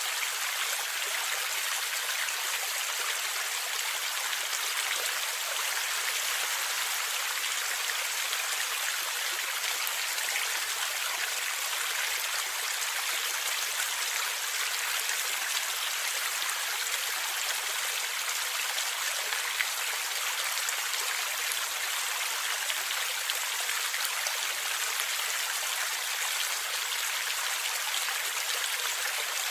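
A forest stream of water flowing and gurgling steadily, with faint small splashes.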